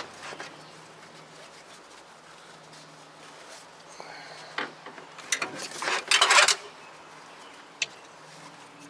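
Shop towels being pulled out from under an intake manifold: a short rush of cloth rubbing and scraping over metal a little past halfway, then a single light click near the end, over a faint steady hum.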